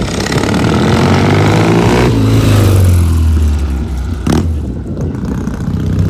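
Rickman Metisse motorcycle engine running loudly and being revved: the revs rise and then ease off about halfway through, with a single sharp crack about four seconds in.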